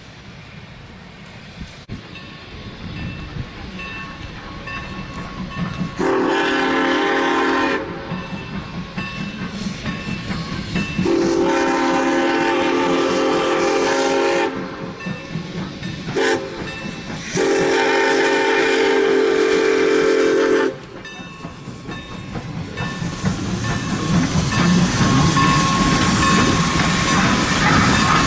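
An approaching train sounds the grade-crossing signal: four blasts, long, long, short, long, each a sustained chord of several notes. Under them the rumble and clatter of the train on the rails builds steadily toward the end.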